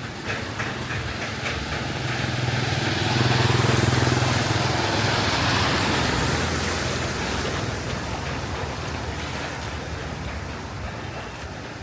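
A car drives past through a flooded street, its engine and the hiss of its tyres through the water swelling to a peak about four seconds in, then fading away.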